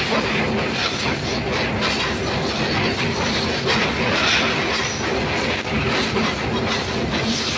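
Shah Latif Express passenger train in motion: a steady rumble and rattle of wheels and carriages on the rails, with clickety-clack.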